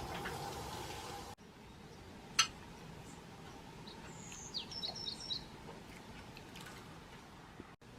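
Water splashing in a birdbath for the first second or so. Then, after a cut, there is a single sharp click and a short burst of high, thin bird chirps around the middle.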